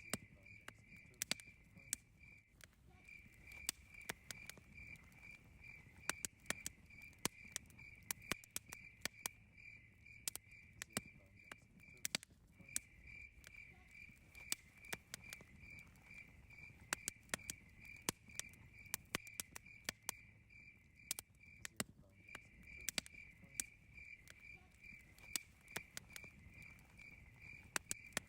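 Campfire crackling, with irregular sharp pops and snaps over a low rumble, while crickets chirp steadily in the background, pausing briefly a few times.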